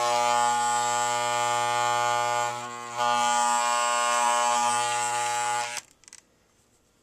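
Older Wahl CMCO electromagnetic hair clipper running with a loud steady buzz. It falters briefly about halfway through and is switched off near the end. The clipper is not running right and needs taking apart.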